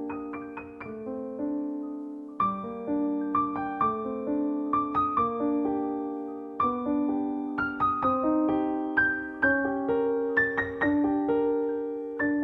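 Background piano music: a slow, gentle melody of single struck notes over sustained chords.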